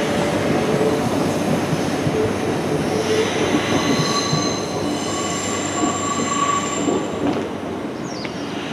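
JR Minobu Line electric train running away along the track, with a steady rolling rumble. From about three seconds in, a thin high squeal of wheels on the rails comes in and holds for a few seconds, then fades near the end.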